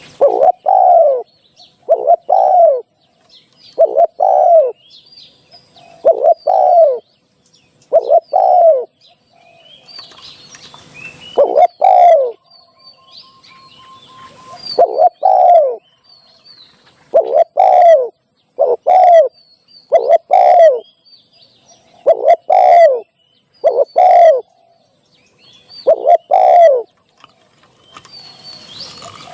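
Spotted dove cooing: a loud series of low two-part coo phrases, repeated every couple of seconds, the kind of call used to lure wild doves in. Faint chirps of small birds sound between the coos.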